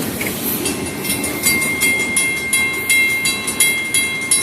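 Freight train rolling past on the rails. About half a second in, a grade-crossing bell starts ringing in rapid strokes, which the railfan calls a crossing malfunction.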